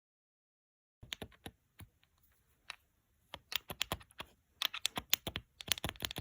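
Irregular light clicking and rattling of hard parts from the just-removed BMW N13 vacuum pump being handled, starting about a second in and growing quicker and denser after about three and a half seconds.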